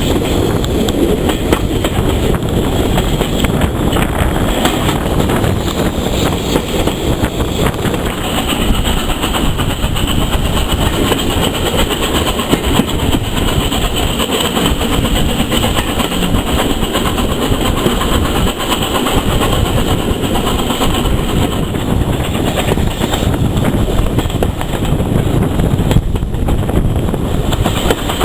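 A train on a heritage railway running along the track, making a loud, steady rail noise without let-up.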